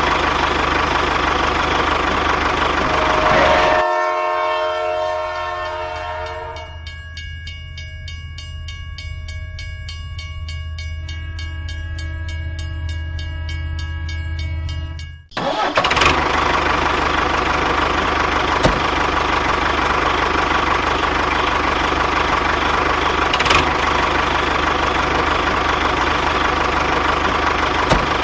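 A tractor-style engine running steadily. About 4 s in it is replaced by a different sound made of several steady tones over a fast, even ticking, which cuts off suddenly about 15 s in before the engine noise returns.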